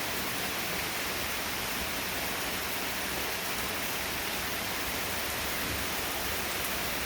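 Heavy rain pouring down, a steady even hiss of rainfall.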